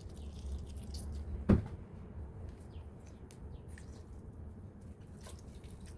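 Quiet kitchen handling noise: a low rumble, then a single knock about a second and a half in, and a few faint small clicks near the end.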